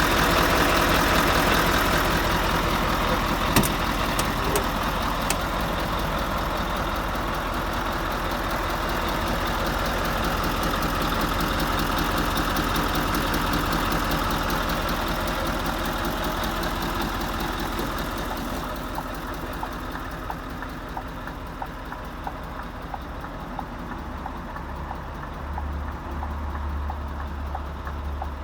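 Scania R520's V8 diesel engine running steadily, loudest in the first few seconds and easing off after about eighteen seconds, with a single sharp knock a few seconds in. Near the end, light evenly spaced ticks come through over the engine.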